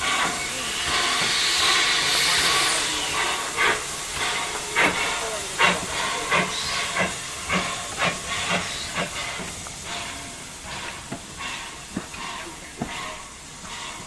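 Steam tank locomotive working: a hiss of steam about a second in, then a run of sharp exhaust beats about two a second that grow fainter toward the end.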